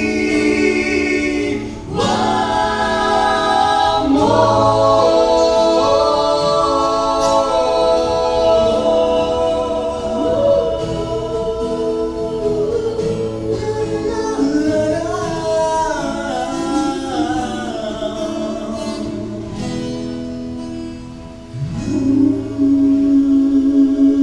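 Vocal group singing a gospel song in harmony with long held notes, with a brief break about two seconds in and another near the end before a new sustained note.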